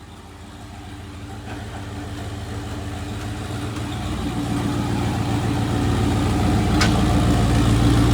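Turbocharged V8 engine running at a steady low speed, growing steadily louder, with one sharp click about seven seconds in.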